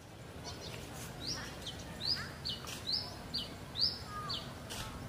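A bird calling: a high two-note phrase, a rising note then a falling one, repeated four times at a steady pace, over faint outdoor background noise.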